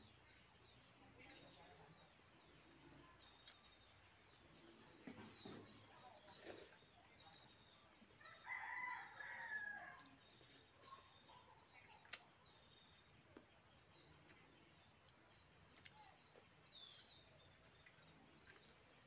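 Birds calling faintly: short high chirps throughout, and one louder call lasting about a second and a half, roughly eight seconds in.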